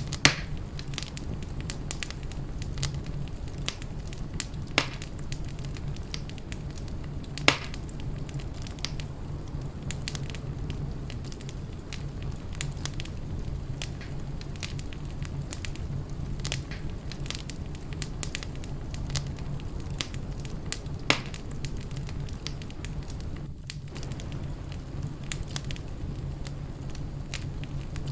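Fireplace fire crackling: a steady low rumble with scattered small crackles and four louder sharp pops spread through it.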